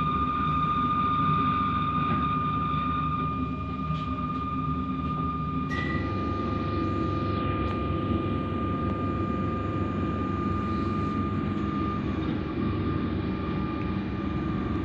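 Alstom Comeng electric suburban train heard from inside the carriage, running at speed: a steady rumble of wheels on rail under a constant high whine. About six seconds in there is a click and a brief higher tone, and the rumble grows fuller.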